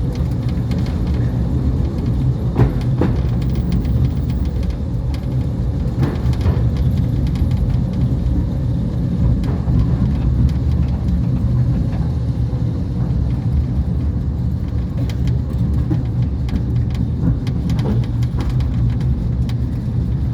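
Mail Rail battery-electric train running along the track: a steady low rumble and hum, with scattered clicks and knocks from the wheels and rails.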